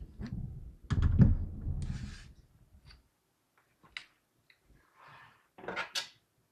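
Knocks, clicks and rubbing from a small PC case being handled while its panels are fitted: about three seconds of handling and knocking, then a few scattered clicks, and a sharp cluster of clicks near the end.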